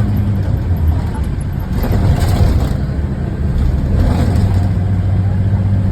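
Diesel engine of a Scania Irizar i4 coach running steadily with a deep, even hum, with a brief burst of hiss about two seconds in.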